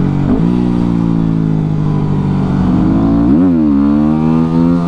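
Yamaha WR250R's 250 cc single-cylinder four-stroke engine under way on the road: it runs at a steady pitch, the revs dip sharply about three seconds in, then climb steadily again.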